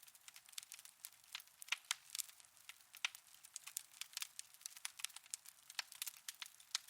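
Wood fire in a fireplace crackling: a dense, irregular run of small pops and snaps, with a few sharper ones.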